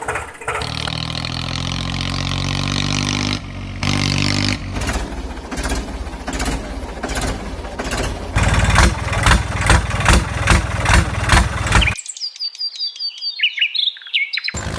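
Cartoon vehicle engine sound effect, a steady hum that turns into a rhythmic chugging of about two to three beats a second. The engine cuts off suddenly near the end, leaving only high bird chirps.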